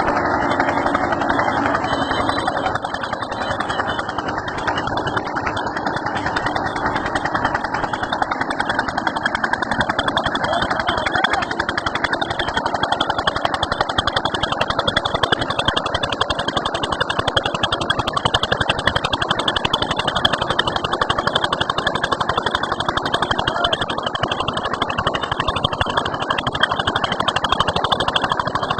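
Eicher tractor's diesel engine running steadily, with a rotavator working behind it.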